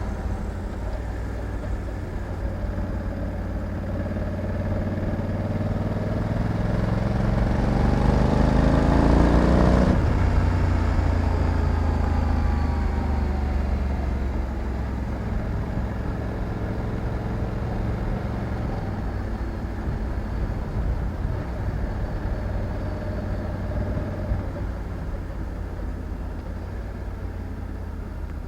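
Honda Africa Twin 1100's parallel-twin engine under way: its pitch climbs and grows louder for a few seconds, then drops abruptly about ten seconds in and settles back to a steadier, quieter run.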